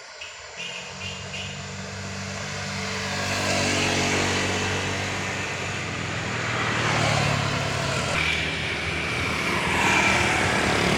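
A loaded truck's diesel engine labouring up a climb under heavy throttle, growing louder as it approaches over about four seconds and then staying loud, with tyre and road noise.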